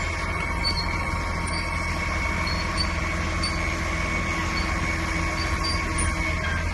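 CAT 950GC wheel loader's diesel engine running steadily, a low rumble with a steady high whine above it.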